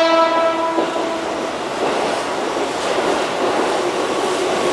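Keihan 8000-series electric train (set 8009) pulling into the station: the tail of its horn, a steady chord, dies away about a second in, leaving the steady rumble of the train running in on the rails.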